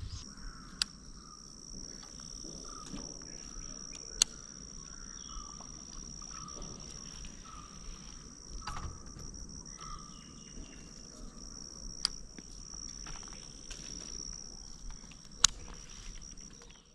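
Steady high-pitched buzzing of insects, with short repeated chirps underneath and four sharp clicks, spaced a few seconds apart, standing out above it.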